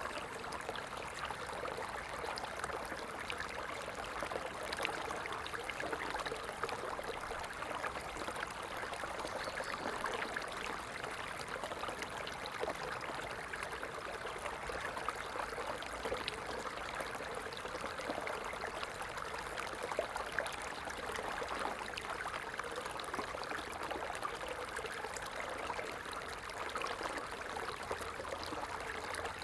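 A stream flowing steadily: a continuous, even rush of running water with fine trickling and splashing.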